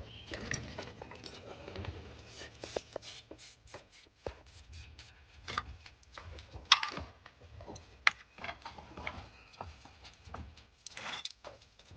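Scattered clicks, taps and scrapes of hand work on car parts, with two sharper clicks about seven and eight seconds in.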